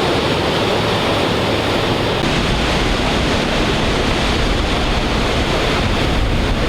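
Ocean surf breaking and washing against a rocky sea wall, a steady rushing noise.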